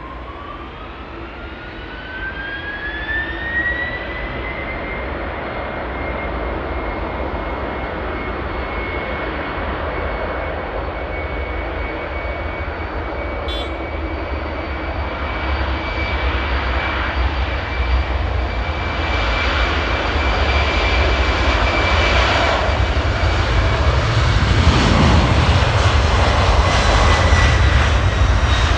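Boeing 767-400ER's twin GE CF6-80C2 turbofans spooling up: a whine rises over the first few seconds and then holds steady over a jet roar. The roar keeps growing louder, with a deep rumble building near the end.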